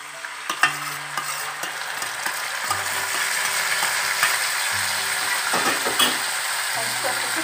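Ground wet masala paste dropped into hot mustard oil in a kadhai, sizzling and frying, the sizzle building over the first second as the paste goes in. A few sharp clinks of a steel spoon and plate, the loudest about a second in and again about six seconds in.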